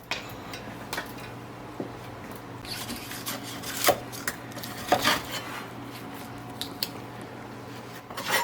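Small household objects clinking, knocking and rubbing as someone rummages for something to cover a cut, with a few sharper clicks about four and five seconds in, over a steady low hum.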